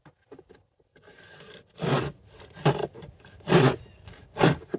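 Wooden grooving plane cutting a groove along a board, with four quick rasping strokes about one every 0.8 seconds, starting about two seconds in after a few light clicks.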